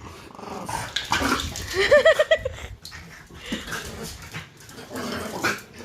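French bulldogs at play with their toys: snuffling and scuffling noises, with a short wavering whine about two seconds in.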